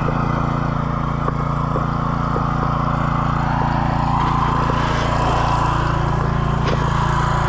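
Pressure washer's small engine running steadily, with the hiss of the water spray.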